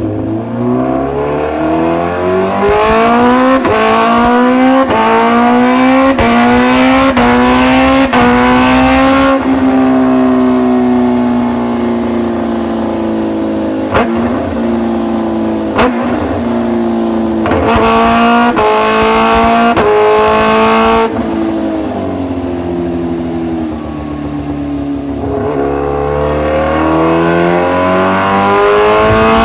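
Supercharged motorcycle engine accelerating hard, its pitch climbing for several seconds. It then eases off to a lower, steadier note, pulls up again about two-thirds through, and climbs once more near the end. Two sharp clicks come near the middle.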